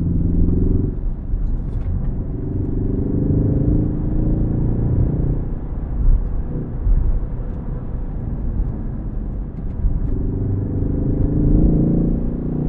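Ford Focus ST engine pulling under acceleration, its note rising steadily, falling away about five seconds in, then rising again in a second pull near the end, with low road rumble underneath.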